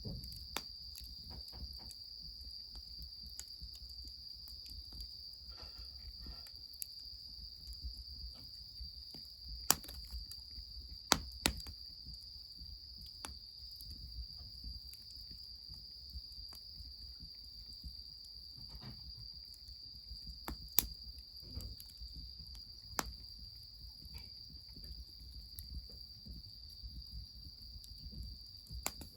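An insect, cricket-like, trilling in one steady high-pitched note throughout. A wood fire crackles with a few sharp pops, the loudest near the ten- and eleven-second marks and again about a third of the way from the end.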